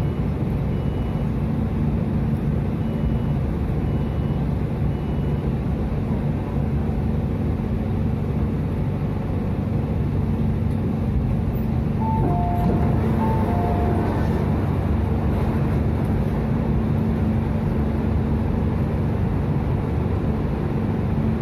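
Inside an MTR Tung Chung line train as it comes to a halt and stands at a station: steady hum and rumble of the train's equipment. About twelve seconds in, a short two-note chime sounds a few times.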